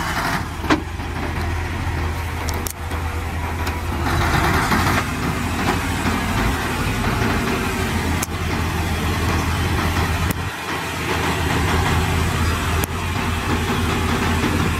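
Heavy earthmoving machine's diesel engine running steadily, with a few sharp knocks and a brief drop in the low rumble about ten and a half seconds in.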